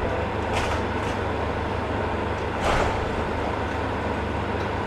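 Diesel engine of a demolition excavator running steadily, with short crashes of falling masonry: two small ones around the first second and a louder one near the three-second mark.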